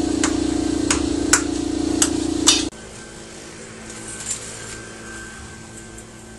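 About five sharp knocks, roughly half a second apart, over a loud steady hum. The hum cuts off suddenly about two and a half seconds in, leaving quiet room tone.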